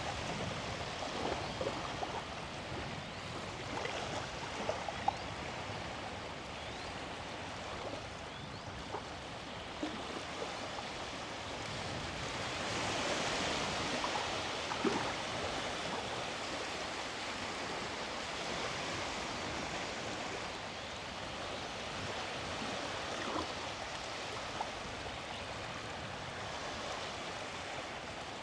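Sea waves washing on a beach: a steady rush of surf that swells about halfway through and eases again, with a few faint ticks.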